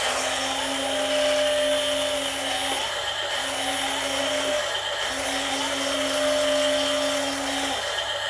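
Small electric motors of radio-controlled toy construction vehicles running with a steady whine in three spells of a few seconds each, stopping briefly between them.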